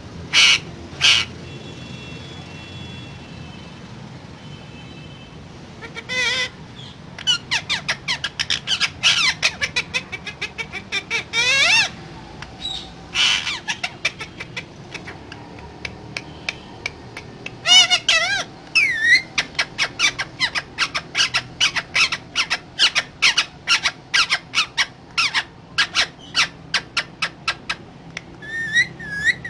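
Pet parakeet squawking: two loud squawks near the start, then long runs of rapid, short, sharp calls with a few longer screeches mixed in.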